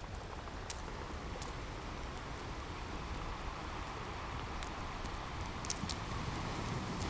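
Fireplace crackling, with a handful of sharp pops scattered over a steady wash of ocean surf that swells slightly toward the end.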